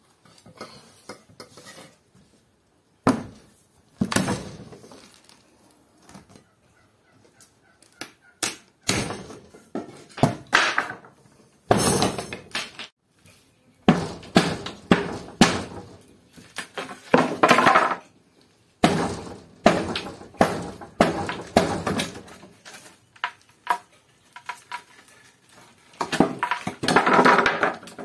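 Masonry being knocked out of a wall: irregular knocks, crashes and clattering of broken brick and rubble, some blows close together, others a second or more apart.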